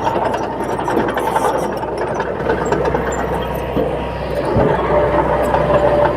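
Heavy diesel earthmoving machinery running steadily, with a thin whine coming in near the end.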